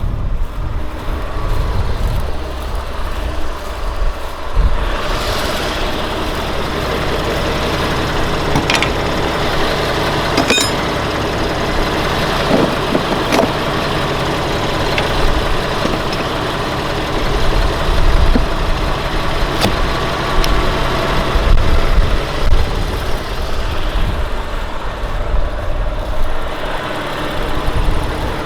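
Valtra T191 tractor's six-cylinder diesel engine running steadily under load while ploughing, louder and with more hiss from about five seconds in until near the end. There are a few sharp knocks partway through.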